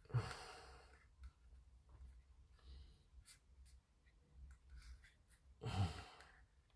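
A man sighs heavily twice, one sigh right at the start and another near the end, while the roof part he is gluing won't stay stuck. Between the sighs there are a few faint light ticks.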